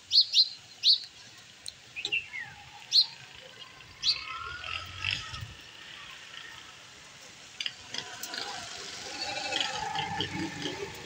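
Quick, sharp bird chirps, a few in the first second and another about three seconds in, over a faint sizzle of jalebi frying in hot oil in a karahi. The hiss grows in the last few seconds as fresh batter goes into the oil.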